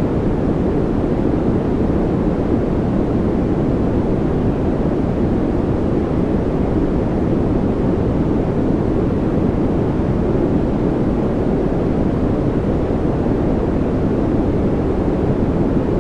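A steady, unchanging synthetic noise track, weighted toward the low end so that it sounds like a deep, even rush rather than a bright hiss.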